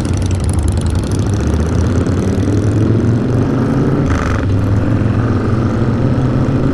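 Motorcycle engine running and pulling away, its pitch rising as it picks up speed.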